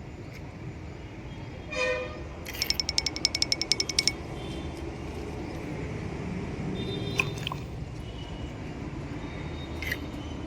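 Toy vehicle's electronic sound effects: a short beep, then a fast, even run of about fourteen beeps at about ten a second, then a single click.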